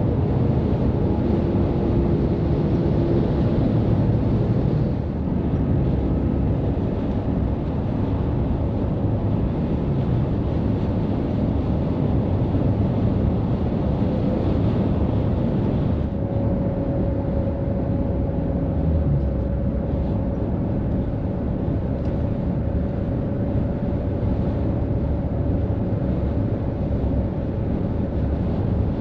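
Highway traffic with heavy trucks going by: steady engine and tyre noise. A steady whine joins about halfway through.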